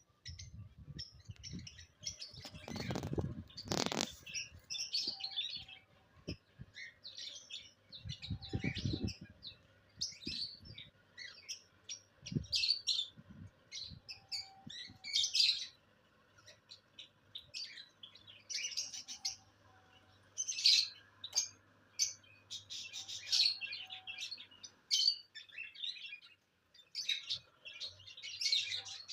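Small pet birds chirping and twittering in a steady stream of quick, high calls. A couple of low rustling rumbles come about three and nine seconds in, with a sharp click near four seconds.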